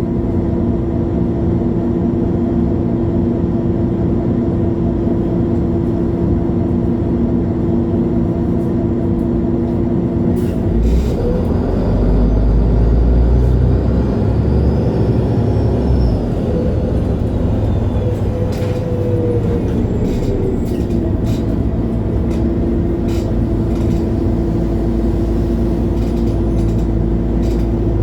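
Diesel engine of a MAN Lion's City G articulated city bus running at a steady idle. About ten seconds in it speeds up under load for roughly ten seconds, with a high whine that rises and then falls, and then drops back to a steady idle.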